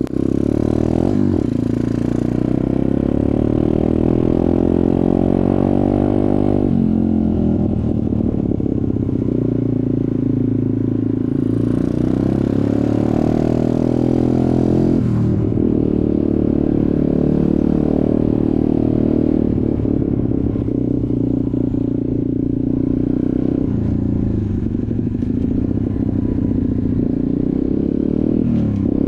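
Off-road motorcycle engine running under way, its pitch climbing under throttle and dropping back several times, most clearly about seven and fifteen seconds in.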